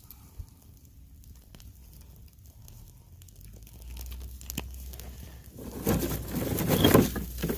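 Tinder and kindling being handled to start a small fire: sparse small clicks and crackles at first, then louder rustling and crinkling in the last two seconds.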